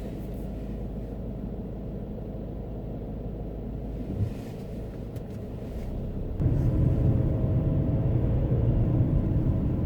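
Car driving, heard as a steady low road and engine rumble that gets clearly louder about six and a half seconds in, with a single light knock a little after four seconds.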